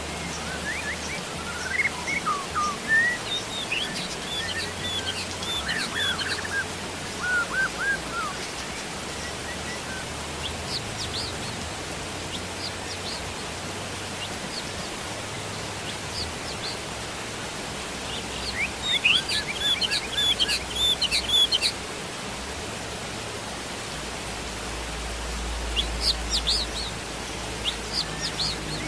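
Steady rain hiss with songbirds chirping over it in several bursts of quick, rising and falling notes. The busiest bursts come in the first few seconds and about two-thirds of the way through.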